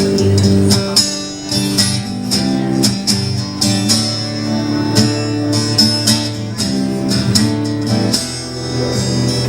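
Instrumental break of a live rock song: acoustic guitar strummed in a steady rhythm over a backing with a regular beat, no singing.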